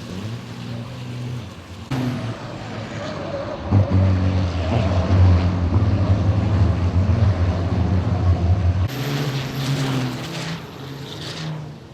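Race trucks' diesel engines running hard on track, in several short shots that change abruptly about two seconds in, near four seconds and near nine seconds; the loudest stretch is the middle shot with a strong low engine tone.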